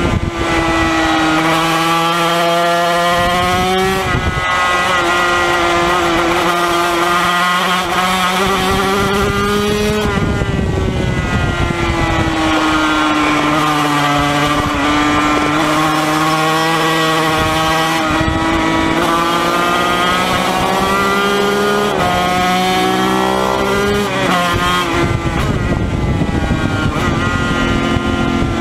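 Yamaha TZ250 two-stroke racing motorcycle engine under hard riding, heard from on board. Its pitch climbs and falls repeatedly, with sharp drops at each shift and several quick stepped drops about two-thirds of the way through.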